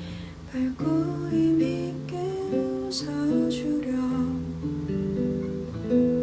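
Acoustic guitar playing a slow instrumental passage, single picked notes and chords ringing on, with a few sharper strums.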